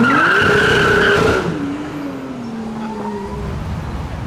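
A supercar accelerating hard: the engine note climbs steeply with a high squeal over it for about a second and a half, then the engine tone slowly falls away as the car pulls off.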